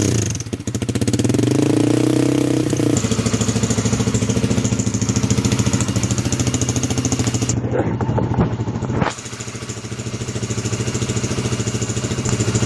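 Honda CBR150R single-cylinder engine running through an aftermarket stainless exhaust with an aluminium round silencer. It is held at raised revs for about the first three seconds, then drops back to a steady idle, with one short throttle blip about eight seconds in.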